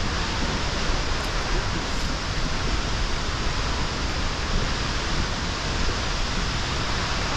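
Waterfall heard close up: a loud, steady rush of falling water and spray.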